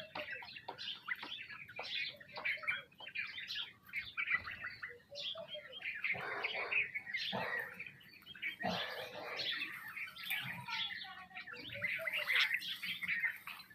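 A group of sparrows chirping, many short calls overlapping without pause.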